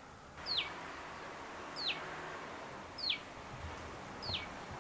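A bird repeating a short, high chirp that slides quickly downward, four times at an even pace of about one every second and a quarter, over a faint steady outdoor background hiss.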